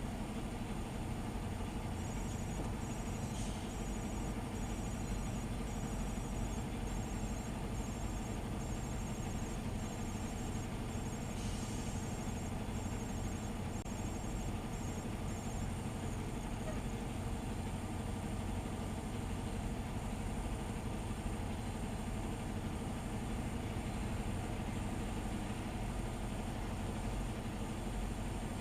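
A truck engine idling steadily. For about the first half a high-pitched beep repeats about one and a half times a second, then stops.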